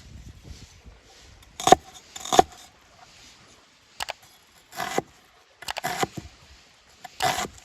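Cookware being handled, about six short clinks and clatters at uneven intervals.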